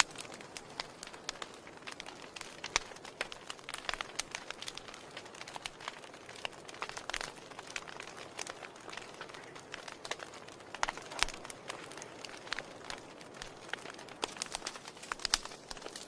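Wood fire in a fireplace crackling: irregular sharp pops and snaps over a steady low hiss of burning.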